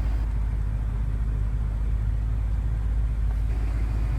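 BMW M5 F10's twin-turbo V8 idling, a steady low rumble heard inside the cabin.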